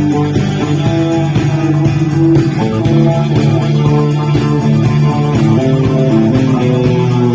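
Rock band playing, with guitar and bass guitar carrying a steady passage of held notes.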